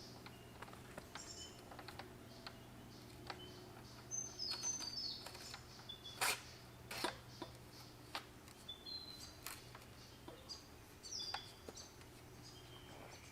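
Forest birds chirping and whistling repeatedly in short high calls, with two sharp clicks about six and seven seconds in.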